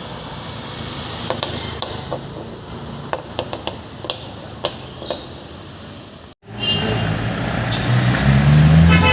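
City road traffic with scattered sharp clicks. After an abrupt cut about six seconds in, the traffic is louder, a vehicle engine climbs in pitch, and a car horn sounds at the very end.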